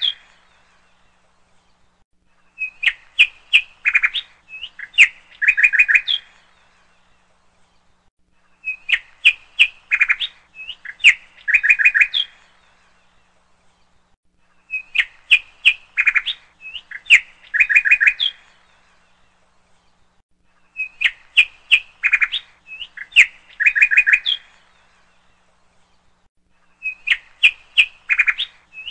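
Bird chirping: the same phrase of quick chirps and short trills repeats about every six seconds, with quiet gaps in between.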